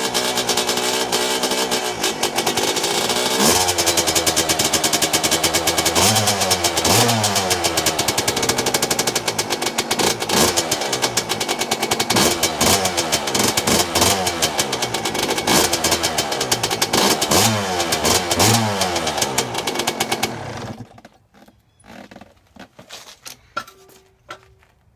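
Yamaha YZ125 two-stroke single-cylinder engine with an Athena 144cc big bore kit, running just after a cold start on choke and revved in repeated short blips. It cuts off suddenly about four-fifths of the way through, leaving a few faint clinks.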